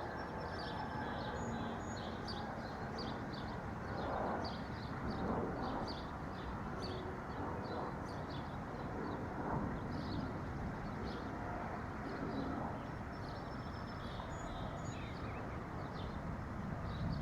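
Small birds chirping in quick, repeated high chirps throughout, over a steady low background noise.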